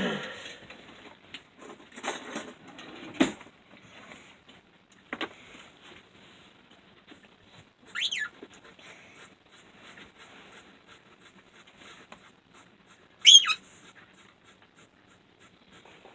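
Pet bird giving two short, sharp whistled calls that fall in pitch, about five seconds apart, with light clicks and knocks in between.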